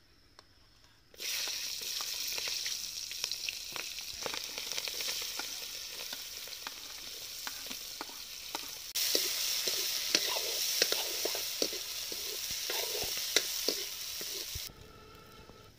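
Chopped onions and green chillies dropped into hot oil in a metal wok, sizzling loudly from about a second in. From about nine seconds the sizzle grows louder, with the clicks and scrapes of a metal spoon stirring, then stops abruptly near the end.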